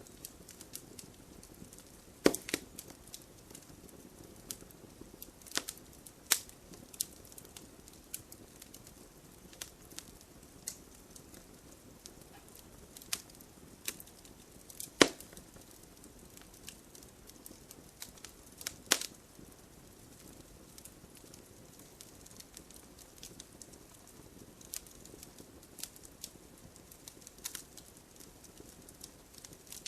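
Wood fire in a fireplace crackling: irregular sharp pops and snaps over a low steady hiss, a few of them much louder than the rest.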